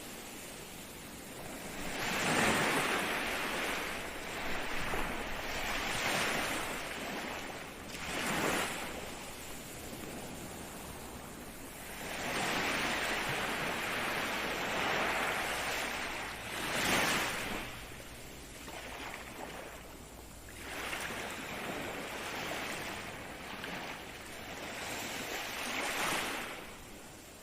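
Ocean surf: waves surging up and falling back again and again, with about seven swells a few seconds apart.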